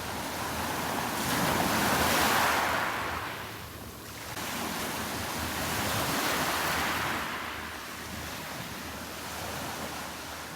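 Sea waves washing onto the beach: surf noise swelling to a peak about two seconds in, ebbing, then swelling again around six seconds.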